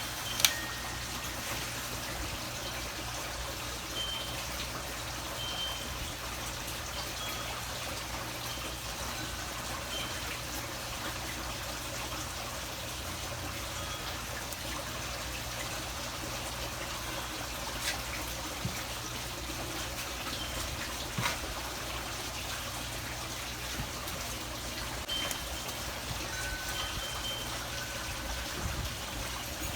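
Steady trickle of running water, with short high tones here and there. One sharp click about half a second in.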